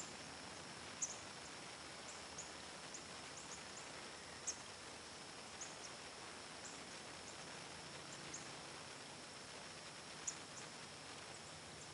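Quiet outdoor ambience: short, sharp high bird chip notes come at irregular intervals, about a dozen, the loudest about a second in, near the middle and near the end. Under them is a steady high insect hum.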